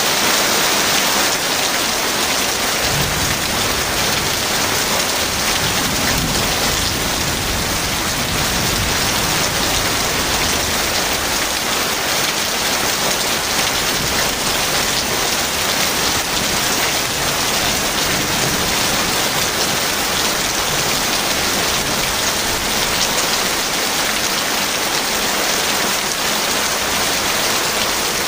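Heavy rain falling in a steady, dense hiss, with a low rumble of distant thunder from about three to ten seconds in.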